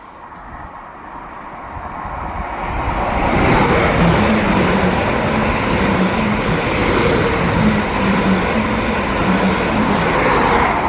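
Electric multiple-unit passenger train passing: a broad rush of wheel and air noise builds over about three and a half seconds, then holds loud and steady with a low hum coming and going, easing slightly at the end.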